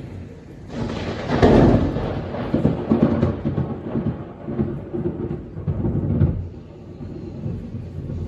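A sudden crack of thunder just before a second in, followed by rolling rumbles that swell several times and die down after about six seconds.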